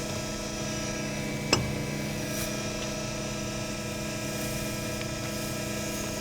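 Harig EZ-Surf surface grinder running quietly: a steady hum of the wheel spindle and hydraulic unit while the hydraulic table reciprocates back and forth, with one sharp click about one and a half seconds in.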